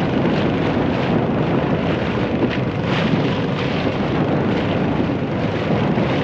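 A small boat's engine running steadily under way, mixed with heavy wind buffeting the microphone in strong wind.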